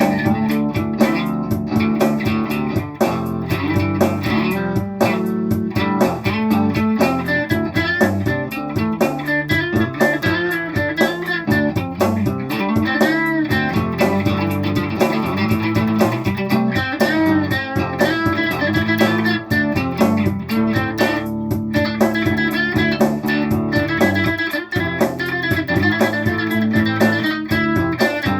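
Instrumental guitar break in a blues-rock song: electric guitar playing over a bass line with a steady beat, without vocals.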